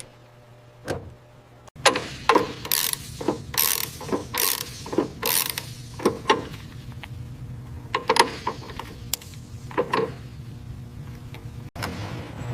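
Hand ratchet wrench being worked on a fitting: a run of irregular metallic clicks and clacks, several a second, over a low steady hum.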